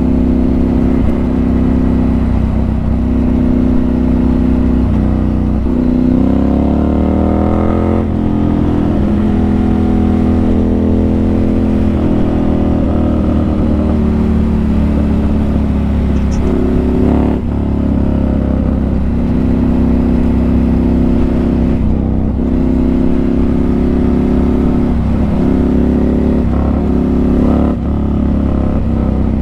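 Motorcycle engine running under way, heard from inside the rider's helmet. The engine note climbs about six seconds in as the bike accelerates, then holds steady.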